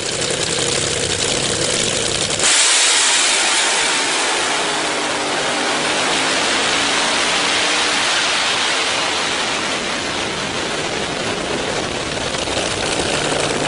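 A car engine running hard under heavy rushing noise, its character changing abruptly about two and a half seconds in.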